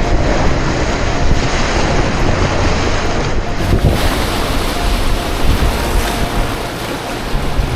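Rushing river whitewater, a steady loud roar, with heavy wind rumble on the microphone.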